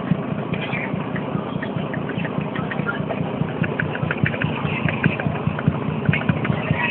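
Barge engine running steadily with a fast, even low beat and light clattering on top.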